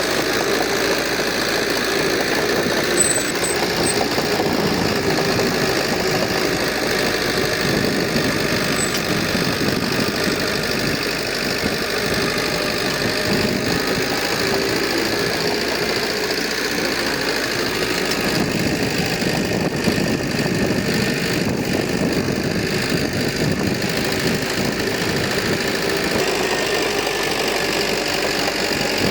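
Diesel engine of heavy earthmoving equipment running steadily with a rough, knocking note.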